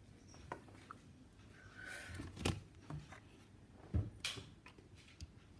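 Small clicks and knocks of a diecast model airliner being handled and fitted onto its display stand, the two loudest about two and a half and four seconds in.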